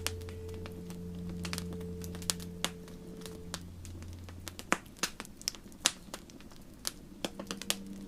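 Wood fire crackling, with irregular sharp pops and snaps, over soft sustained ambient music tones that fade out about halfway through, with new tones coming in near the end.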